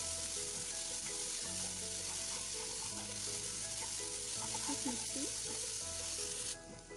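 Chopped onion and soaked moong dal sizzling in hot oil in a non-stick frying pan as they are stirred with a spatula. The sizzle cuts off abruptly near the end.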